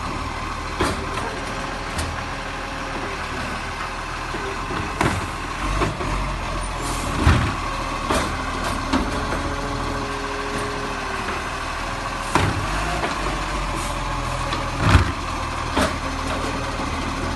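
Garbage truck engine running steadily, with sharp clunks and knocks every few seconds, two of them louder than the rest.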